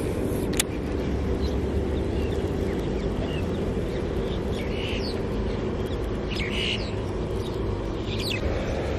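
Birds chirping briefly several times over a steady low outdoor rumble of wind and distant traffic, with one sharp click near the start.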